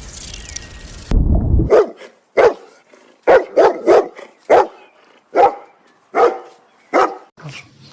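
Dog barking, about ten sharp barks in an uneven series, starting about a second in.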